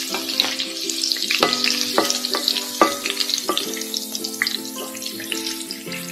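Besan-battered hadga (bok) flowers deep-frying in hot oil: a continuous sizzle full of small pops and crackles. Soft background music with held notes plays underneath.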